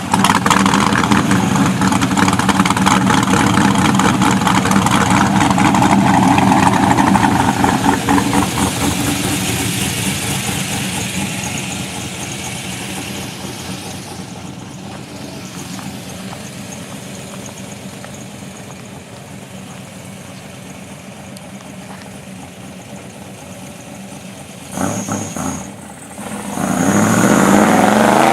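2005 Pontiac GTO's LS2 V8, with a VRX5 cam, Kooks headers and the mufflers deleted, idling loud and pulsing just after a warm start: a high idle that settles lower over about ten seconds. A short throttle blip comes near the end, then the revs climb as it takes off.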